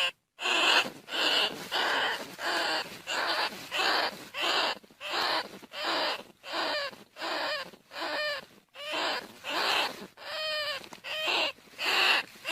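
Greater bandicoot rat calling: a steady run of short squeaking calls, about two a second, played as a lure call for catching the rats.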